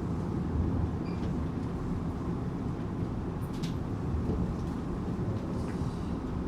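Tokyu 8500 series electric train running: a steady low rumble of wheels on the track, with a few faint clicks.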